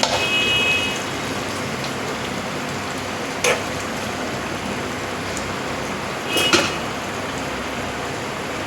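Chicken liver and gizzard curry cooking in a pan with a steady hiss, while a metal spoon knocks against the pan three times: near the start, about three and a half seconds in, and about six and a half seconds in, two of the knocks ringing briefly.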